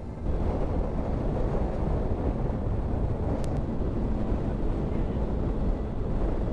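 Wind rushing and buffeting over the microphone of a moving motorcycle, over the steady running of the Triumph Sprint ST 1050's three-cylinder engine. The noise steps up just after the start and then holds steady.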